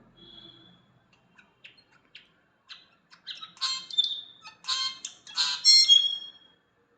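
An unidentified bird calling: a string of short, high notes that come closer together and grow louder, ending in a few loud, harsh notes mixed with clear whistles.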